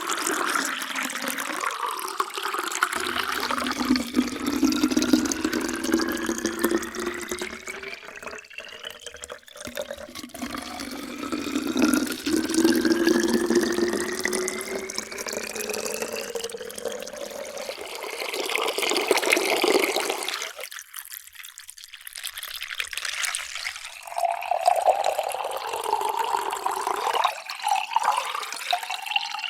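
Water poured in a stream into a drinking vessel, the pitch rising steadily as the vessel fills; this happens over two long fills. The pouring stops about two-thirds of the way through, and after a short break a new pour starts.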